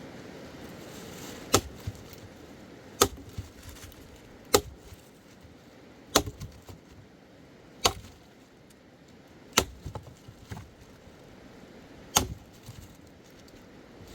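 An axe chopping wood: seven sharp strikes, roughly one every one and a half seconds, with a longer pause before the last.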